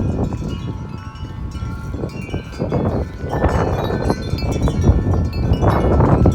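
Several wind chimes ringing in strong, gusty wind, many overlapping notes. Wind buffets the microphone in surges near the start, a little past the middle and near the end.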